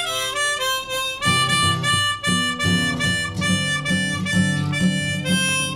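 Harmonica playing a bluesy instrumental song ending, a run of held and changing notes, over rhythmically strummed acoustic guitar chords that come in about a second in.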